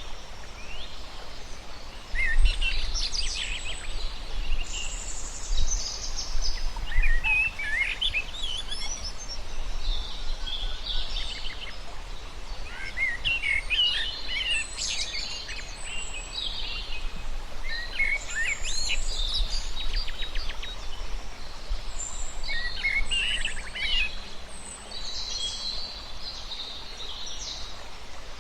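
Several birds calling and chirping in short, overlapping phrases and quick trills, over a steady background hiss, with a low rumble underneath from about two seconds in.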